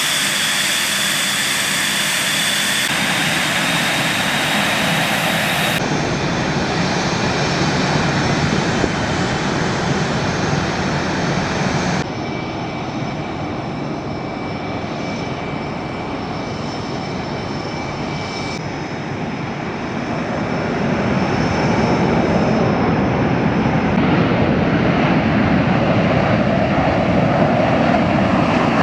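F/A-18 fighter jets' engines running, a steady rush with high whining tones, in several spliced recordings that change abruptly every few seconds. The noise grows louder about two-thirds of the way through.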